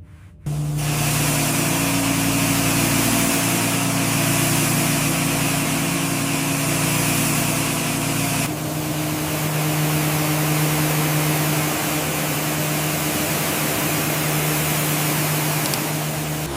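A motorised workshop machine running steadily: a low motor hum under a loud hiss. It starts suddenly about half a second in and changes abruptly about eight and a half seconds in.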